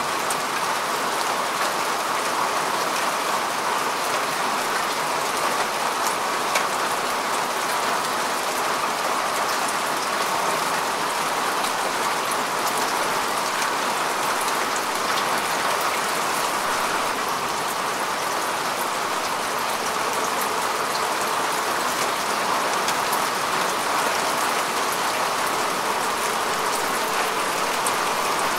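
Steady rain falling on grass and earth, an even hiss with scattered fine drop ticks and no let-up.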